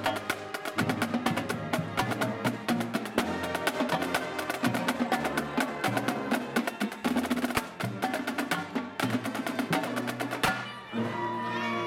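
Marching band playing: a drumline's rapid snare strokes and clicks over pitched band notes. About ten and a half seconds in the drumming stops and only held notes carry on.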